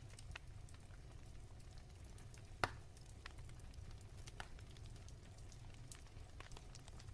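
Wood fire crackling: scattered soft snaps and pops over a low rumble, with one louder pop about two and a half seconds in.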